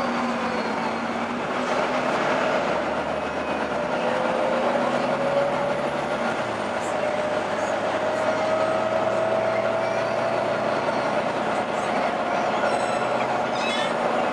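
Volvo B9TL double-decker bus running, with a strange howl from its drivetrain over the steady rumble. The howl is a single whine that dips in pitch just after the start, then climbs slowly and steadily through the rest of the clip.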